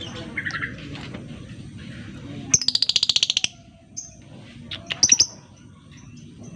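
Lovebird giving a fast, rattling chatter trill of about a second, followed a moment later by a few short, shrill chirps.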